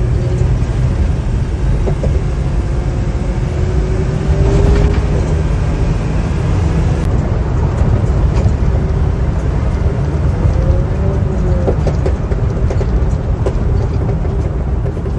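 Kia Forte GT's 1.6-litre turbocharged four-cylinder running with a steady low exhaust rumble, broken by a few short, sharp exhaust pops, the pops and bangs of its base tune.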